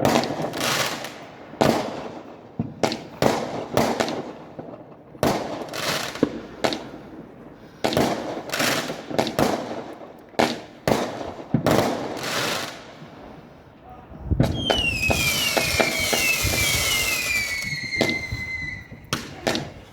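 Fireworks going off: a long series of sharp bangs, each followed by a crackling or echoing tail. About fourteen seconds in, a dense volley starts in which several whistles fall in pitch one after another, lasting about four seconds.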